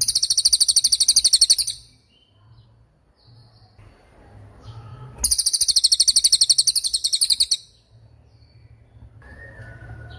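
Cililin bird singing: two long, very high, rapid trills of about two seconds each, the second starting about five seconds in, with faint chirps between them.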